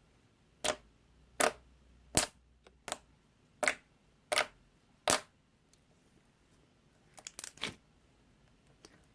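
Slime being pressed and played with, giving crisp, sharp popping clicks: seven evenly spaced about every three-quarters of a second, then a quick flurry of several pops a couple of seconds later.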